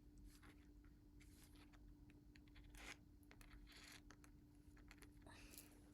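Faint brush strokes on paper: a few soft, brief swishes of a paintbrush laying gouache on a journal page, over a faint steady hum.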